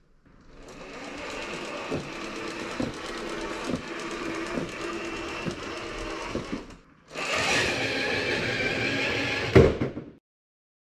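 Traxxas TRX-4 RC crawler's electric motor and gearbox whining as it drives over raised bumps, with frequent knocks from the wheels and suspension. It pauses briefly about seven seconds in, then runs again louder and higher-pitched, and stops about ten seconds in.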